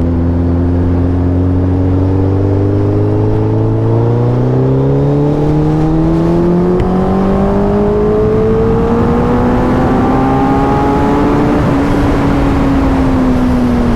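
Superbike's inline-four engine pulling under steady acceleration, its pitch rising slowly for about twelve seconds and then levelling off.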